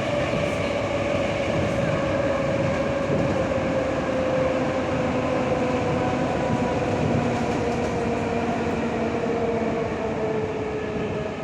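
Electric suburban train running at speed: a steady rumble of wheels and running gear, with a whine that sinks slowly in pitch as the train eases off a little.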